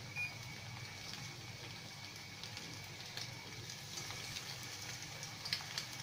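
Breaded milk fingers deep-frying in a pan of hot oil: a steady soft sizzle with scattered small crackles. A short electronic beep just after the start, from the induction hob's controls as the heat is turned down.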